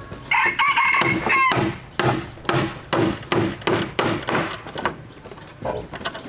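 A rooster crowing once, about a second long, near the start. It is followed by a run of sharp knocks, about three a second, that fade out past the middle.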